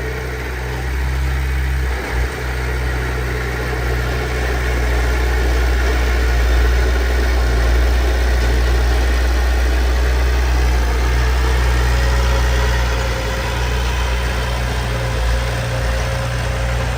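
Heavy diesel engine of an earthmoving machine running steadily at close range, a deep, loud rumble that comes in suddenly at the start.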